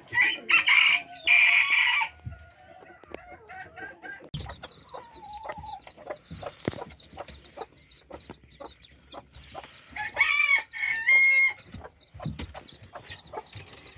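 Roosters crowing: one crow right at the start and another about ten seconds in. Between them, chickens cluck and give a long run of quick, high, short calls.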